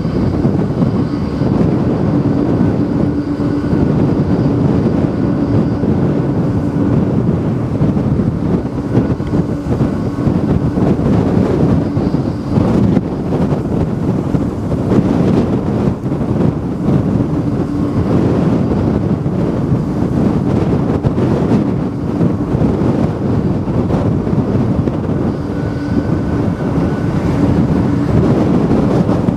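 Strong typhoon wind buffeting the microphone: a loud, steady rush with gusts and no let-up. A faint steady hum sits beneath it for the first several seconds and again near the end.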